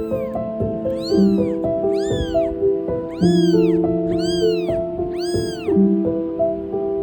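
A tiny newborn kitten mewing: about five high cries roughly a second apart, each rising and then falling in pitch, over piano music.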